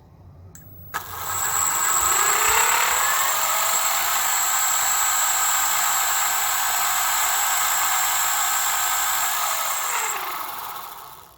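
Chain-drive electric skateboard motor spun up with the board off the ground: the motor whine rises for about two seconds, then holds steady with a metallic chain-and-sprocket rattle and a high whine. Near the end it winds down and fades out.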